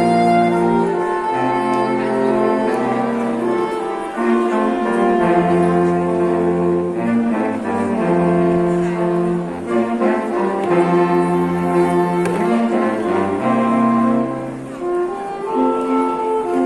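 A live quintet playing a slow piece: sustained bowed string notes in several voices over a cello bass line that moves to a new note every second or two.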